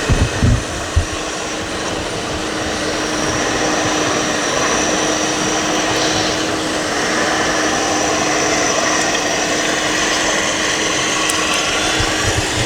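A steady whirring noise, motor-like, with a faint constant hum running through it and a few low thumps at the start and again near the end.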